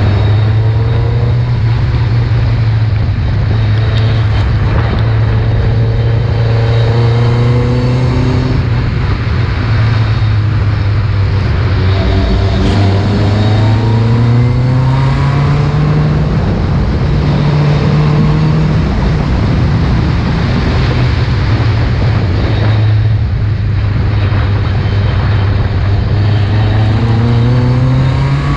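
Ford Escort RS competition car's engine running hard and loud, revving up through the gears. Its pitch climbs in several long sweeps and drops back at each shift.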